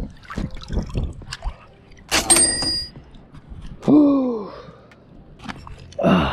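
A hand rummaging in shallow water among rocks, with small knocks, a louder splash about two seconds in, and trickling water. A short falling voiced exhale or grunt comes about four seconds in, and another brief one near the end.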